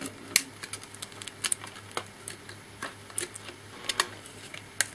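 Scattered light clicks and taps, about half a dozen at uneven intervals, from the opened laptop's parts being handled on the bench, over a faint steady low hum.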